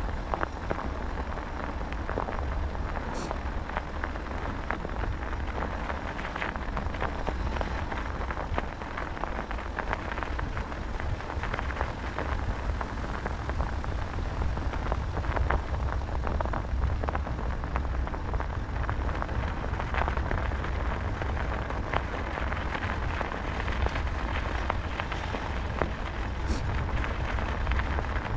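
Wind buffeting the microphone during a bicycle ride, over a steady crackling noise of the bike's tyres rolling on a rough forest track.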